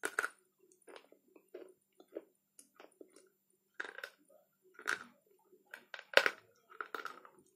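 Slate pencils being bitten and chewed: a run of short, dry, crisp crunches at uneven intervals, the loudest a little past the middle.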